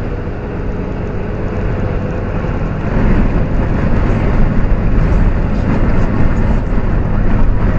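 Vehicle engine running with road noise, a steady low hum that grows louder about three seconds in.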